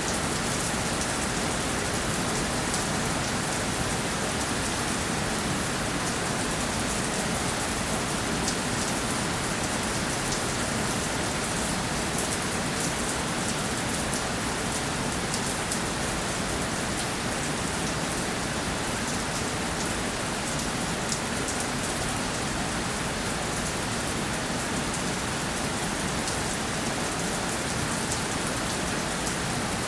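Steady rainfall: an even hiss of rain on a surface with many fine drop ticks, unchanging in level.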